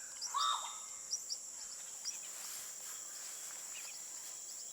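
Tropical rainforest ambience: a steady high-pitched insect drone, with a few bird calls in the first couple of seconds, a pair of arched mid-pitched calls followed by short high chirps.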